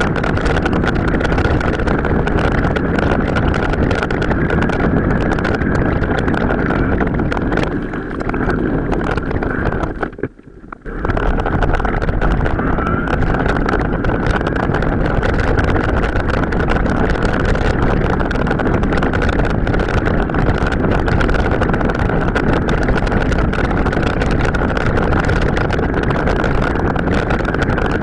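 Wind buffeting the microphone and rumbling riding noise from an off-road mountain bike ride, sped up several times, with a steady high whine throughout. The sound dips briefly about ten seconds in.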